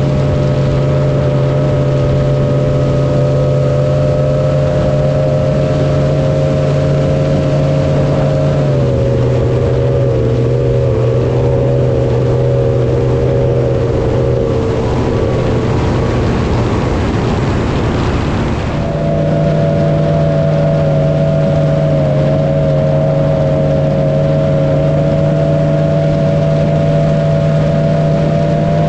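An engine running at a steady speed. Its pitch drops slightly about nine seconds in, a rushing noise swells around sixteen seconds, and from about nineteen seconds the engine holds steady again at a higher pitch.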